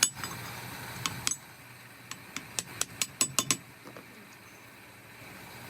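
Light metallic clicks and clinks from hand tools and steel parts being handled on a workbench: two separate clicks a little after a second in, then a quick, irregular run of about nine clicks around the middle.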